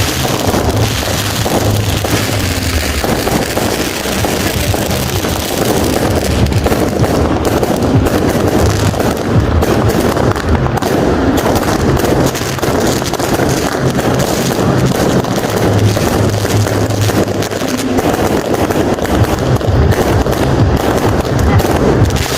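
Fireworks and firecrackers going off in a dense, continuous barrage of rapid cracks and bangs, with no let-up.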